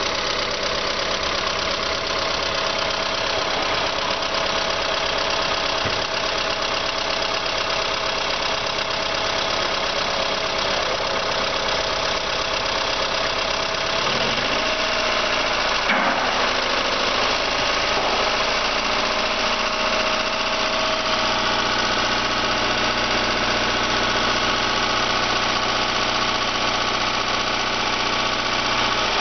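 2001 Kia Rio four-cylinder engine idling steadily during a test run, with a brief change in pitch and a sharp click about halfway through.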